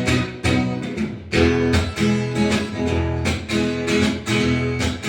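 Acoustic guitar strummed in a steady rhythm, with chords ringing between the strokes.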